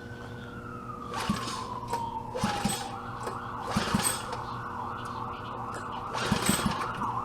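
Recoil pull-start cord on a mini bike's small engine being yanked again and again, each pull a short sharp rasp. Under it runs a steady siren-like tone that first slides down in pitch, then wavers up and down.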